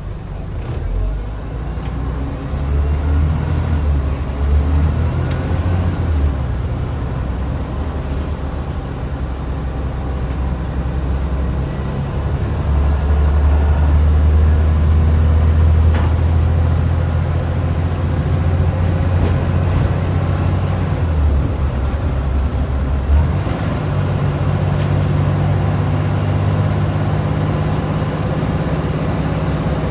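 Scania N94UD double-decker bus's DC09 diesel engine pulling under load, with a thin high whine that climbs steadily in pitch. About two-thirds of the way through, the engine note dips and breaks up, then comes back at a different pitch, as in a gear change.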